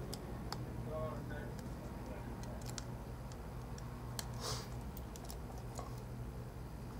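Faint, irregular light clicks of a small screwdriver and tiny parts against an iPhone 4's frame during reassembly, over a steady low hum.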